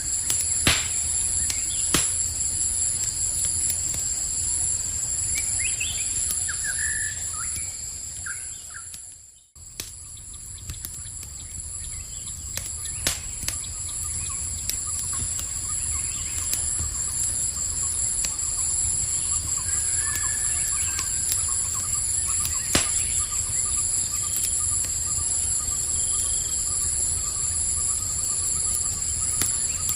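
Campfire crackling with occasional sharp pops over a low rumble, set against a steady high chorus of night insects and a few short bird chirps. About nine seconds in, the whole soundscape dips almost to silence and then fades back in.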